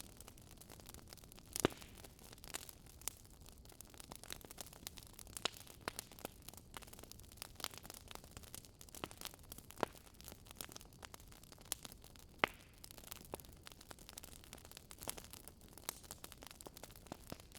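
Wood fire crackling: a faint noise bed with irregular small snaps and a couple of louder pops.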